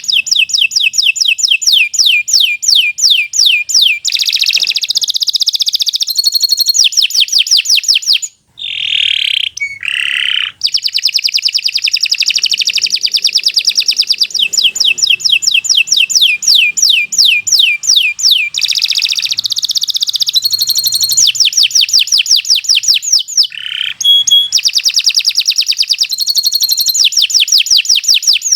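Domestic canary singing a long, loud song made of fast trills, runs of rapidly repeated high notes. About eight seconds in, the trills break for a few lower, swooping notes, then start again.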